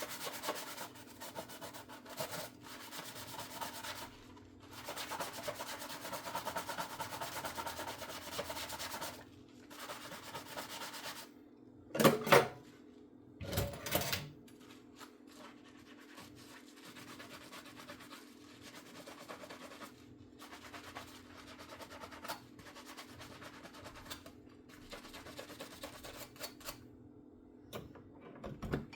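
Dishes being scrubbed by hand at the sink, with a run of scratchy rubbing strokes. There are two louder knocks about twelve and fourteen seconds in, and a faint steady hum underneath.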